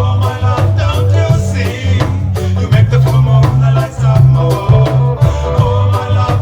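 Live reggae band playing a lovers rock song: a heavy bass line moving between notes under regular drum kit hits, with guitar and other pitched parts above.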